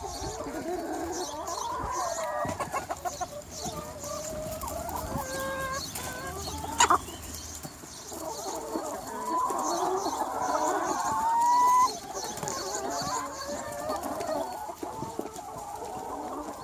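Large free-range chicken flock clucking and calling, many birds overlapping. A brief sharp sound a little before the middle, then a louder drawn-out call that rises and cuts off sharply.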